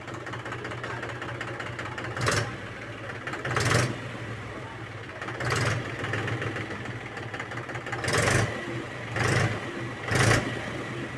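Mahindra 265 DI tractor's three-cylinder diesel engine running at idle, revved in short throttle blips about six times, its tappet valves freshly adjusted.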